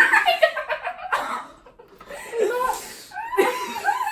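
People laughing and giggling in bursts.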